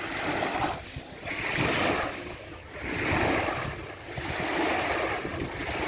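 Small waves washing in on the beach, a rhythmic hiss that swells and fades about every second or so.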